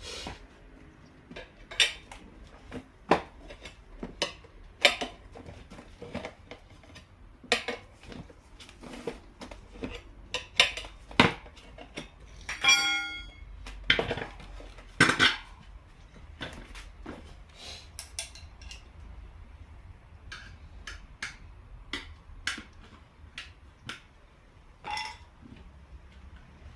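Metal hand tools and wheel parts clinking and knocking at irregular intervals during a motorcycle rear tyre change, with a brief ringing clang about halfway through.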